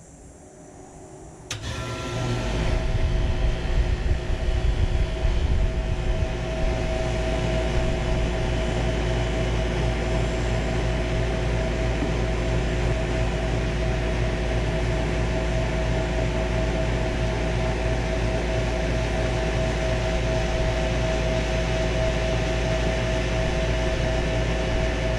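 2005 Payne Teardrop central air conditioner's outdoor unit starting up: about a second and a half in, its Bristol reciprocating compressor and condenser fan kick on suddenly, run unevenly for several seconds, then settle into steady running with a constant pitched drone over a low rumble.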